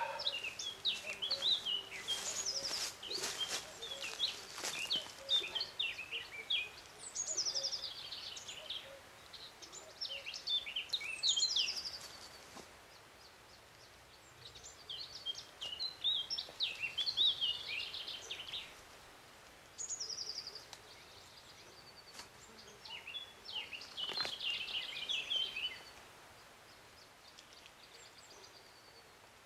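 Songbird singing in short bouts of quick chirps and trills, about seven phrases with pauses between them, fading out near the end. A few faint clicks about two to five seconds in.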